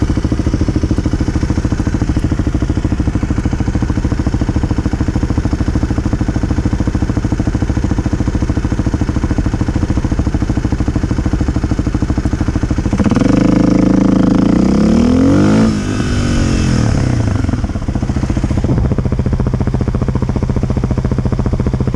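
Kawasaki KLX250 single-cylinder four-stroke engine idling, then revving and rising in pitch as the bike accelerates about thirteen seconds in. A couple of seconds later the throttle shuts off suddenly for a quick stop, and the revs fall back to idle.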